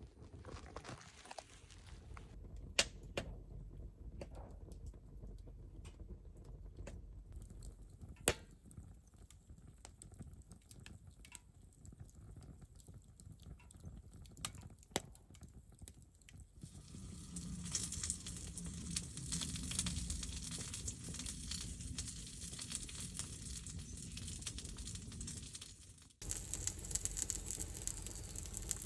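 Wood fire crackling in a wood stove, with scattered sharp pops at first and a denser, steadier crackle from about halfway through.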